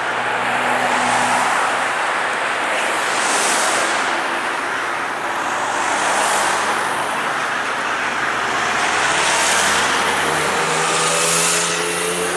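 Road traffic: several vehicles passing one after another, each swelling up and fading, with an engine drone rising slowly in pitch near the end.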